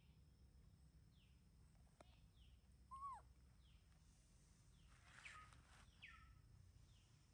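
Faint outdoor ambience with birds calling: a short falling chirp repeats about once a second, and a few louder whistled calls come near the middle.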